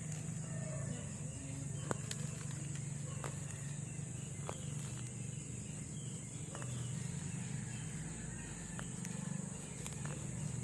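A steady high-pitched drone of insects, with a low hum beneath and a few scattered faint clicks.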